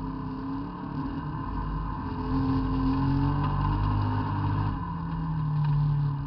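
Race car's engine heard from inside the cabin, running hard under load on a dirt track, its pitch rising and falling with the throttle. It gets louder about two seconds in and again near the end.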